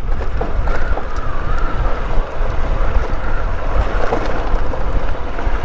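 Wind buffeting the microphone over the steady running of a Honda Unicorn motorcycle's engine, ridden along a rough, stony off-road track.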